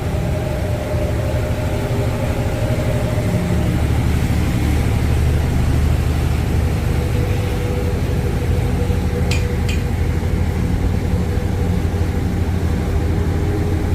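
Thames river ferry's engines running with a steady low drone and a few steady tones above it. Two short sharp clicks come about nine and a half seconds in.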